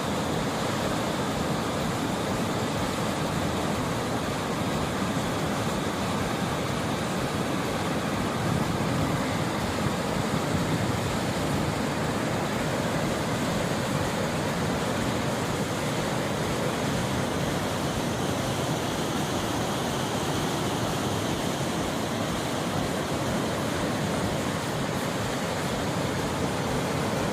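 Gokak Falls, a large waterfall in full monsoon flow: a steady, dense rush of falling water.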